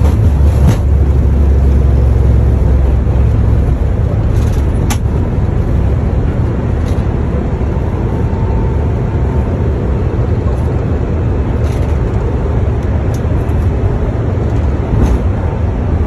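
Airbus A350 flight deck during takeoff: a loud, steady rumble of engine and airflow noise, easing a little about three seconds in, with a few faint clicks.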